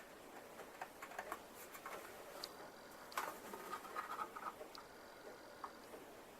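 Faint, irregular scratching and light clicks of hand work on a plastic scale-model part, with a sharper click a little after three seconds.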